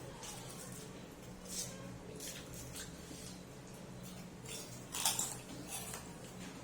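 Close-up eating sounds: irregular wet chewing and mouth smacks, with the loudest smack or crunch about five seconds in, over a steady low hum.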